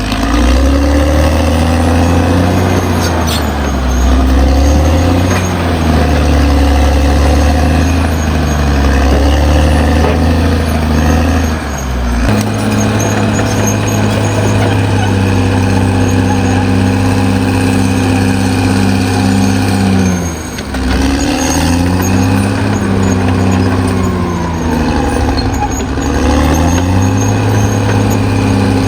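Caterpillar D6R XL bulldozer's diesel engine running under load as the machine works. Its pitch sags and climbs, jumps to a new steady note about twelve seconds in, and dips briefly before revving back up near twenty seconds.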